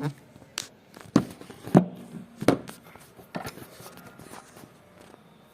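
Irregular knocks and taps, about five in the first three and a half seconds and quieter after, as wax crayons and pencils are handled on a table.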